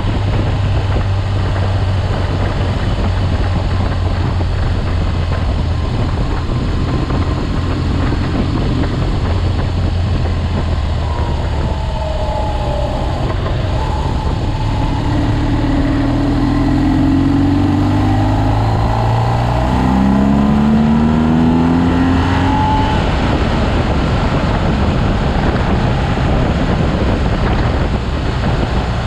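BMW R 1200 GS motorcycle's boxer-twin engine running at road speed, with wind noise on the bike-mounted microphone. About halfway through, the engine note rises several times in steps as the bike accelerates.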